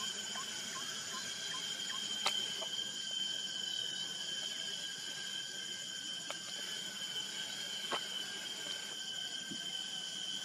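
A steady chorus of insects, several shrill, unbroken high tones going on together, with a few sharp clicks, the loudest about two seconds in.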